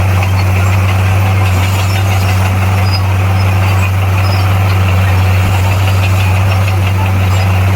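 Bulldozer's diesel engine running steadily with a constant low drone, the engine speed holding unchanged throughout.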